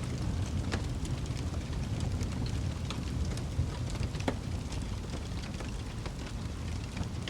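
Wood fire crackling in a fireplace: a steady low rumble of burning with frequent small snaps and pops throughout. Two louder pops come about a second in and a little past the middle.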